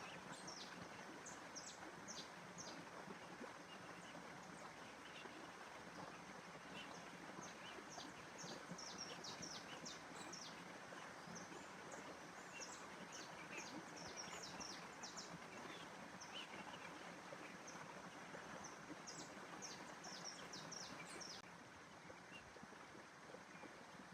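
Small birds chirping in quick, high, scattered calls over a faint steady rushing background of natural ambience.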